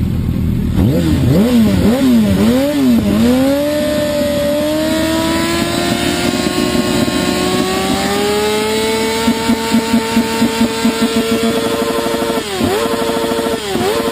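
Sport motorcycle engine and exhaust revving. It starts with a few quick throttle blips, then the revs climb slowly and steadily for several seconds and hold, and near the end the pitch drops sharply and recovers twice.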